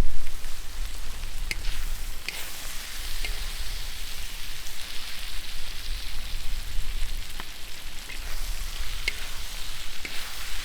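Food sizzling as it fries in hot oil in a pan, with a few sharp pops and crackles.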